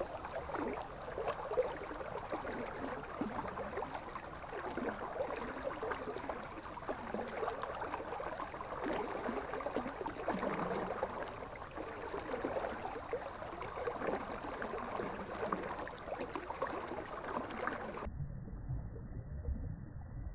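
River water flowing and babbling, a steady uneven rush. About 18 s in it cuts abruptly to a duller low rumble.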